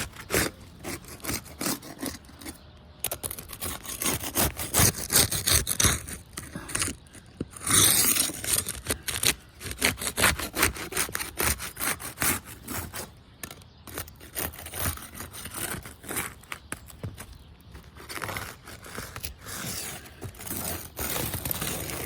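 A metal roofing tool scraping and prying under asphalt architectural shingles to lift a tab, with irregular scrapes and clicks.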